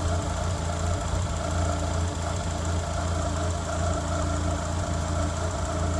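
1993 Mazda Miata's 1.6-litre four-cylinder engine idling steadily and running smoothly, sounding really good.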